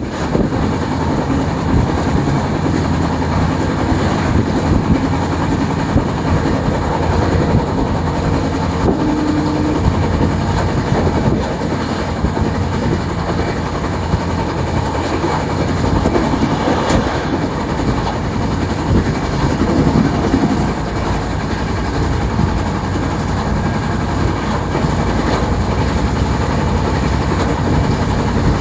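Indian Railways AC superfast express train running on the track, a steady loud rumble of wheels and coaches.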